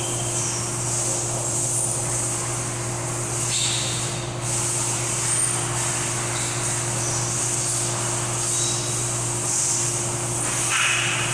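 A steady low hum with a constant hiss, and a couple of faint, brief higher-pitched sounds.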